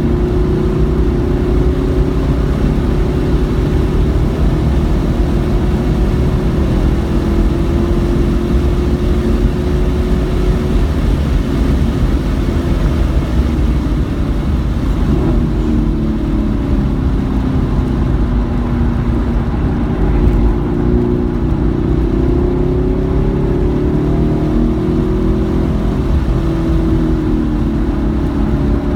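Car engine running hard at track pace, its pitch climbing and dropping again and again as it accelerates, shifts and brakes, over a steady rush of road and wind noise.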